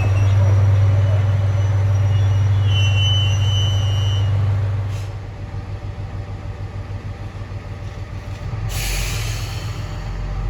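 Diesel railcar running with a deep engine hum and a brief high brake squeal; the hum drops off about four and a half seconds in. Near the end comes a short hiss of air from the brakes.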